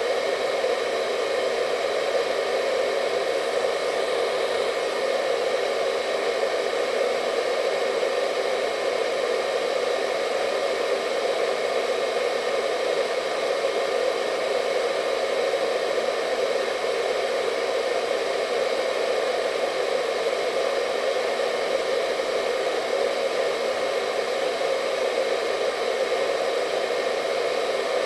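Hair dryer running continuously at a steady speed, a constant whooshing airflow with a faint steady whine over it.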